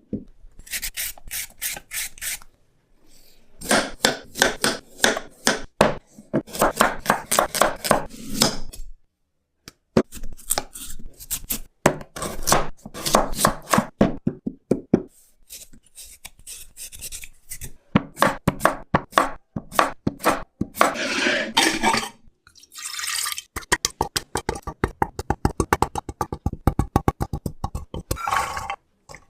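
Knife chopping on a cutting board in quick runs of sharp, even strokes, several a second, broken by short pauses.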